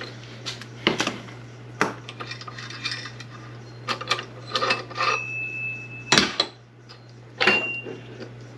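Steel tools and parts clinking and clanking together as a bearing puller and transmission parts are handled: a string of separate knocks, with two short metallic rings about five and seven and a half seconds in. A steady low hum runs underneath.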